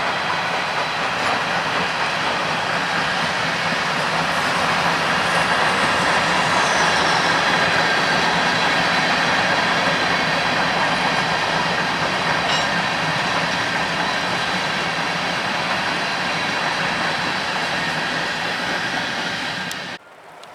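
CPKC freight train's cars rolling past on a curve: a steady, loud rumble of steel wheels on rail with a faint steady wheel squeal. It cuts off suddenly near the end.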